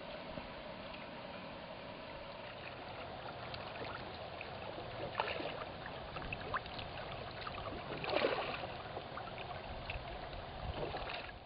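Water splashing and lapping, with scattered short splashes; the loudest comes about eight seconds in.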